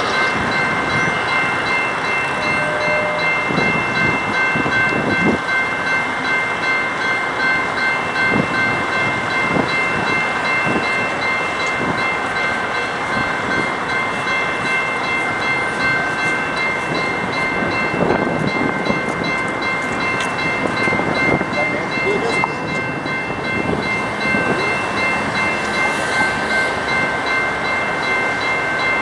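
A train rolling past at a steady pace: continuous rumble of the cars, with scattered wheel clicks and a steady high-pitched ringing tone over it.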